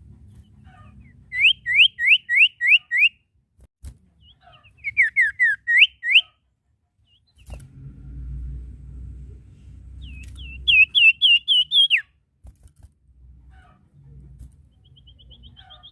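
Sirtu (common iora) singing three quick runs of sharp whistled notes, each run lasting about a second and a half. The first run is six rising notes, the second falls and then rises, and the last is a faster series. A low rumble lies under the last run.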